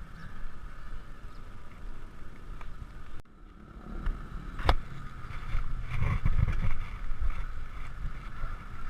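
Wind and road rumble on a GoPro microphone while riding a bicycle, steady and buffeting, with a sharp click near the middle.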